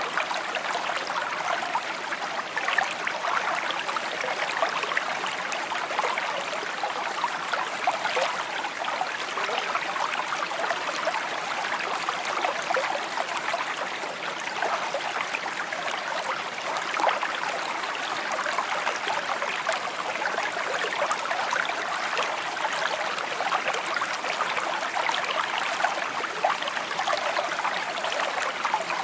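A small stream babbling and trickling over stones, a steady, continuous flow of water with fine splashing detail.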